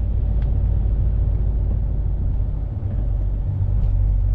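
Steady low rumble of a truck on the move, its engine and road noise heard from inside the cab, with a brief slight dip about three seconds in.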